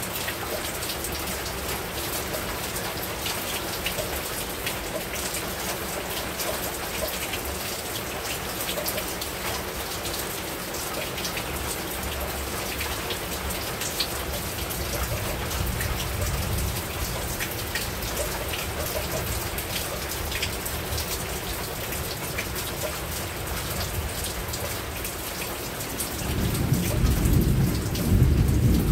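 Heavy rain falling steadily, a dense patter of drops on the roof. A low rumble of thunder swells faintly in the middle and comes in louder about three seconds before the end.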